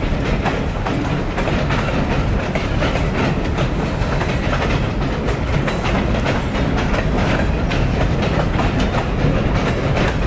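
Canadian National freight train's hopper cars and boxcars rolling steadily across a steel girder bridge: a continuous low rumble with frequent clacking of the wheels over the rail joints.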